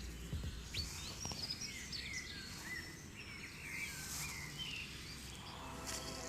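Several wild birds singing and calling in woodland, a busy mix of short chirps and whistles over a faint steady hiss. Soft music with held notes fades in near the end.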